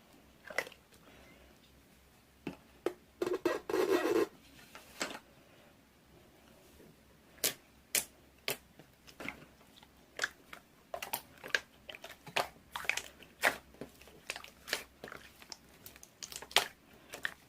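Slime being played with by hand: sharp popping clicks, a few early on and coming quickly one after another from about seven seconds in, with a denser run of squishing noise about three to four seconds in.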